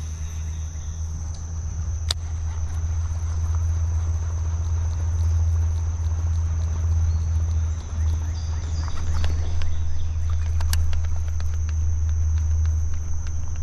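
A steady, high insect drone over a strong, steady low rumble, with a few light clicks and taps about two-thirds of the way through.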